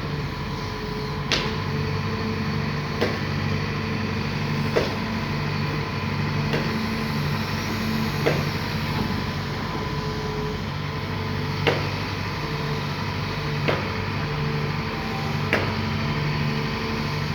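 Sumitomo SH210 long-arm excavator's diesel engine running steadily, with sharp short clicks or knocks about every two seconds.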